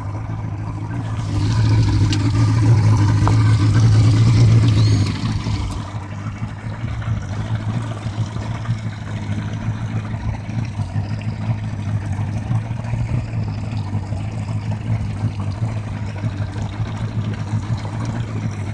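Yamaha 115 horsepower two-stroke outboard motor running: it grows louder for a few seconds, then drops back about five seconds in to a steady idle.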